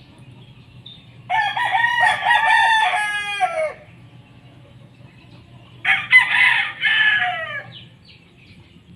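Gamefowl roosters crowing: two long crows, one starting about a second in and another about six seconds in, each trailing off in a falling note.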